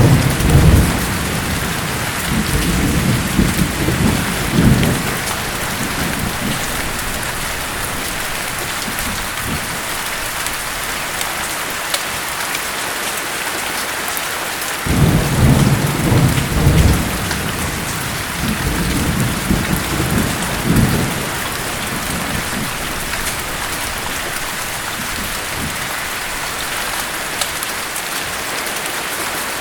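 Steady heavy rain with thunder rolling twice: a low rumble in the first few seconds and again from about halfway through, each lasting around five seconds.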